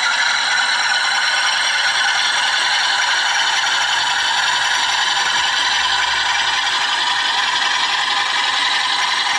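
Hornby TTS sound decoder in a Bachmann Class 47 model diesel locomotive playing the Class 47's Sulzer diesel engine sound through a small speaker, running steadily and loudly at low speed step 4, mixed with the mechanical running noise of the model on the track.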